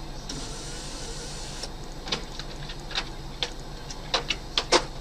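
Steady low hum of a moving car heard from inside, with a brief hiss early on and then a run of sharp, irregularly spaced clicks or knocks, about six of them, the loudest near the end.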